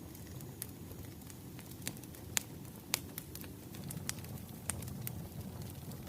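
Wood fire crackling: irregular sharp pops and snaps, a couple of them louder in the middle, over a steady low rustle of burning.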